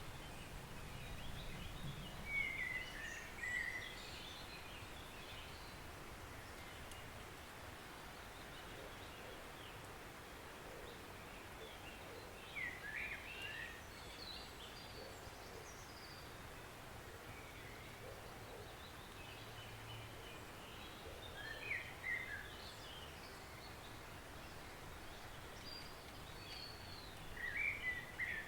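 Forest stream running with a steady rush of water, while a songbird sings short chirping phrases four times, several seconds apart.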